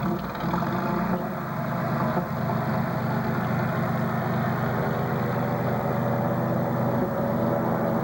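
An engine running steadily at low speed with a deep, even hum.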